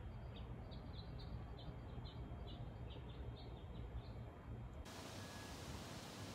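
A small bird chirping over and over, short high notes a few times a second, over a low rumble of wind. About five seconds in, the sound cuts abruptly to a steady hiss.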